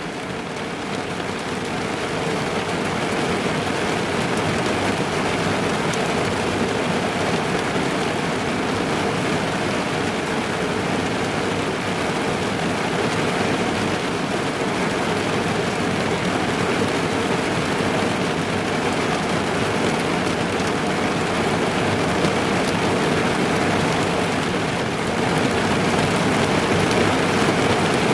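Steady heavy rain drumming on a car's roof and windows, heard from inside the car, growing a little louder over the first few seconds and again near the end.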